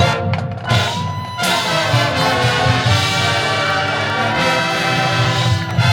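High school marching band playing loudly: massed brass, trumpets and trombones, over a pulsing low end.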